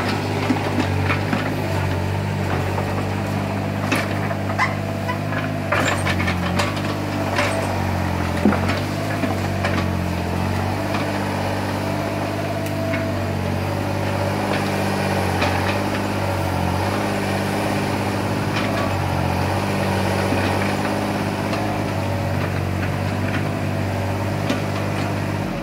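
Mini excavator engine running steadily, with sharp knocks and clanks in the first several seconds that then die away, leaving the engine alone.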